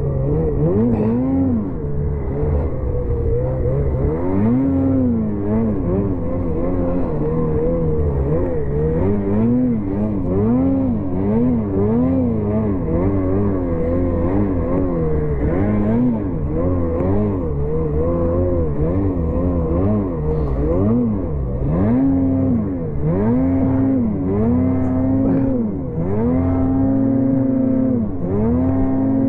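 Ski-Doo 850 snowmobile's two-stroke engine revving up and down over and over while riding through deep snow. The pitch climbs and drops many times, and in the second half it is held high for a second or so at a stretch.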